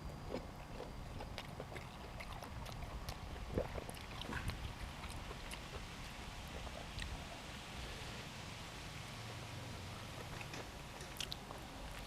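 A person eating close to the microphone: chewing, with scattered small clicks and smacks throughout over a low steady hum.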